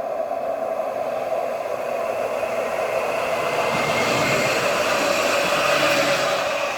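Nottingham Express Transit tram, an Alstom Citadis 302, running past at speed: steady rushing wheel-on-rail noise with a humming motor tone, growing louder to a peak near the end.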